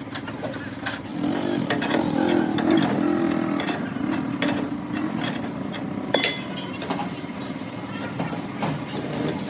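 An engine running steadily, swelling for a few seconds early on, with scattered sharp metallic clinks and knocks; the loudest knock comes about six seconds in.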